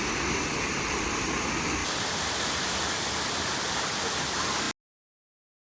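Waterfall rushing, a steady even roar of falling water, which cuts off abruptly near the end.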